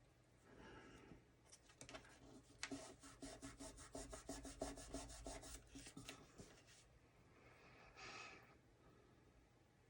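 Paper card stock being rubbed in a quick run of scratchy back-and-forth strokes, several a second, for about three seconds in the middle. Softer paper rustles come before and after.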